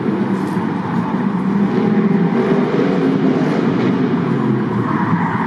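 A race car's engine running as it drives the stadium track.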